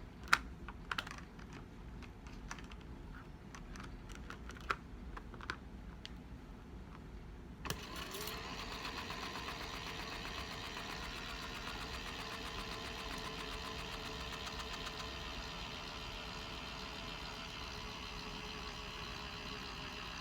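A few sharp plastic clicks and knocks from handling the small battery-powered beauty-blender washing machine, then about eight seconds in it switches on and its little motor runs steadily, spinning the sponge basket.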